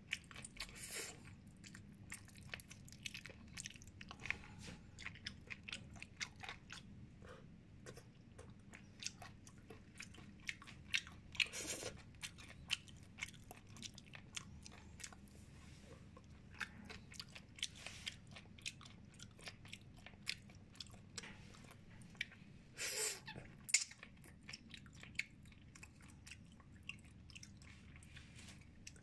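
Close-miked chewing and biting of steamed chicken: a steady run of small wet clicks and crunches, with a few louder bites spread through.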